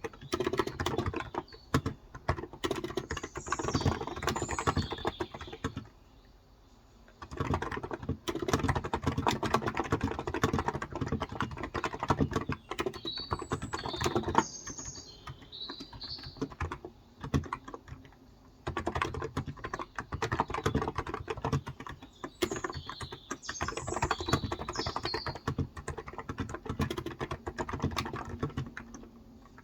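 Fast typing on a Cox Endeavor tenkeyless keyboard with 35 g electro-capacitive (Topre-style) switches, in long runs of keystrokes with two short pauses. Birds chirp in the background three times.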